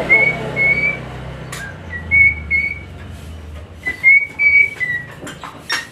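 A series of short whistled notes at nearly one pitch, coming in pairs about every two seconds, over a low hum.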